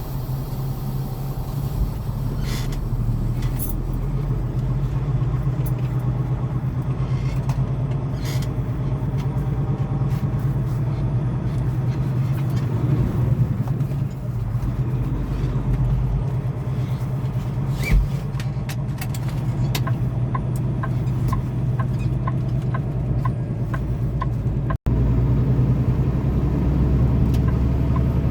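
Semi truck's diesel engine running steadily while the rig moves slowly, with a run of light regular ticks in the later part and a few sharp clicks.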